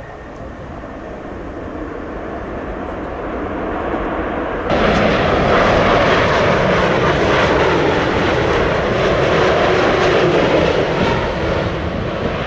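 Boeing 787 jet airliner landing, its engine noise growing louder as it comes near. The sound jumps suddenly louder nearly five seconds in, stays loud for several seconds, then eases near the end.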